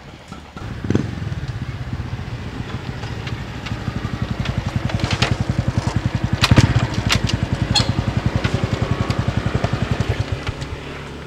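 Small scooter-type motorcycle engine running with a steady low pulsing beat. It grows louder over the first half and then fades toward the end, with a few sharp clicks in the middle.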